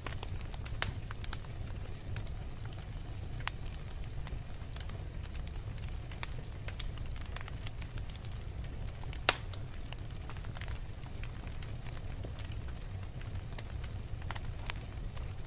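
Wood fire burning in a fireplace, crackling with scattered sharp pops over a low steady rumble; one loud pop a little past halfway.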